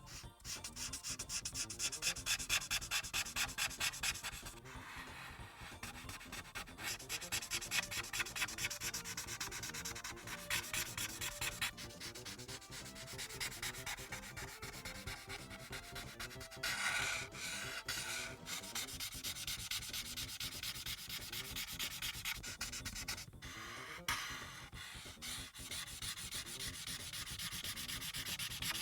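Marker tip rubbing on paper in quick back-and-forth colouring strokes, with a few brief pauses.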